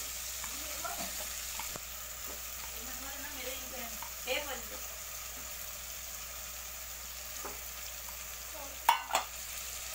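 Cauliflower masala and fried eggs sizzling steadily in an aluminium pressure cooker, with a few light clicks. Two sharp knocks near the end are the loudest sounds.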